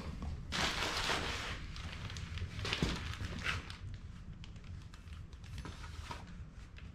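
Packaging and loose machine parts being handled: a second-long burst of rustling about half a second in, another shorter one near three seconds, and scattered small knocks and clicks.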